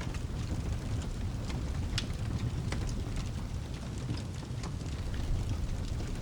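Fireplace fire crackling, with scattered sharp pops, over a steady low rumble and a soft hiss of rain.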